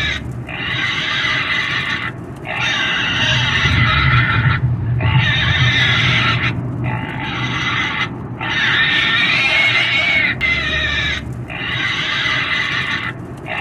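A pig squealing over and over: loud, high-pitched screams, each lasting one to two seconds, broken by brief pauses for breath about six times.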